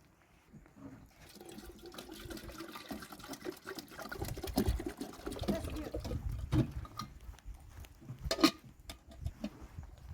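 Water splashing and pouring, with a sharp knock about eight seconds in.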